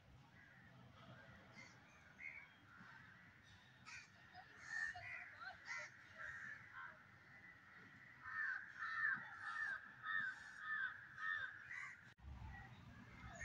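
Faint birds calling, with a dense run of short repeated calls in the second half.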